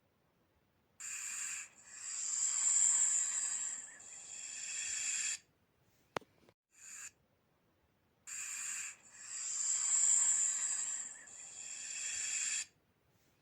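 Snake hissing in a repeating pattern: a short hiss followed by a long drawn-out hiss of about three and a half seconds, heard twice, with a sharp click and a brief hiss in between.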